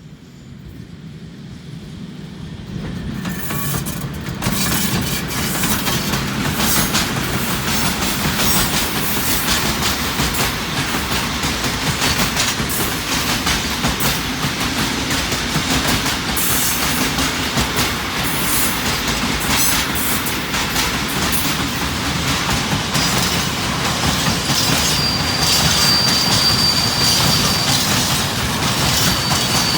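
Train passing close by: the rumble and the clicking of wheels over the rails build up over the first few seconds, then hold loud and steady. A thin, high wheel squeal comes in briefly near the end.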